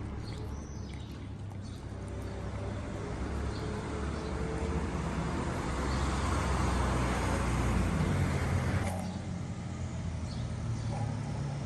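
Street traffic: a passing vehicle whose noise builds over several seconds and drops off sharply about nine seconds in, over a low steady rumble.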